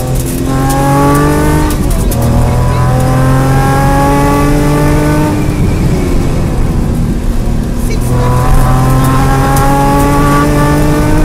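Datsun 240Z rally car's straight-six engine at full throttle, heard from inside the car. Its pitch climbs through the gears with a shift about two seconds in. It eases off for a couple of seconds midway, then pulls hard again up to another shift near the end.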